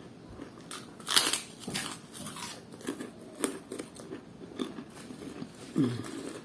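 Close-miked biting and crunchy chewing of fried snack food, in irregular crackly crunches, loudest just after a second in.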